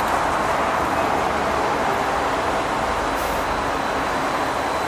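Electric multiple-unit commuter train rolling slowly out along the platform: a steady rumble and hiss of wheels and traction equipment, with no change in loudness.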